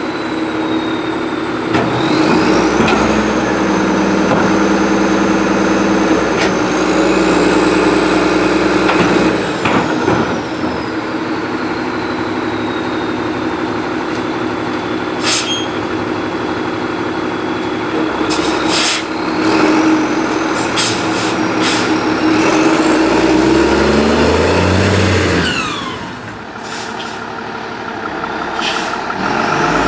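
Garbage truck running a pickup: a steady diesel engine hum with a high hydraulic whine that rises and falls, and sharp knocks and hisses several times. Near the end the engine revs up, then drops back.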